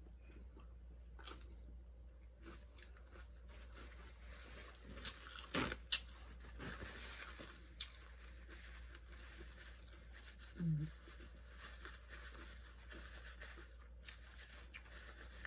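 Faint chewing of nacho chips, with a few sharp crunches and clicks about five to six seconds in. A short closed-mouth hum near eleven seconds.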